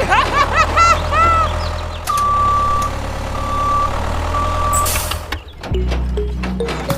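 A vehicle's reversing alarm beeps three times at one steady pitch over a low, steady engine hum. Squeaky sounds glide up and down in the first second.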